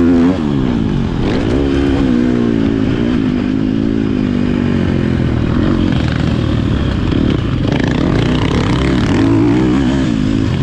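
Motocross bike engine running under load, its pitch rising and falling as the throttle opens and closes, with a brief drop just after the start.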